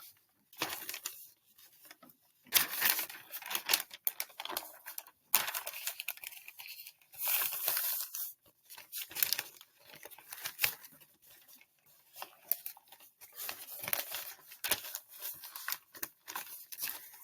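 Irregular crackling and rustling noise, sharp and mostly high-pitched, coming in short spurts with brief quiet gaps.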